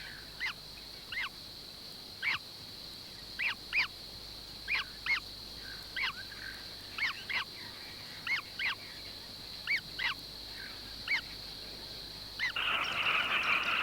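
Short animal calls, each a quick rising-and-falling note, repeated irregularly about once or twice a second, some in pairs, over a steady high-pitched hiss of wildlife ambience. Near the end the hiss gives way to a denser chattering noise.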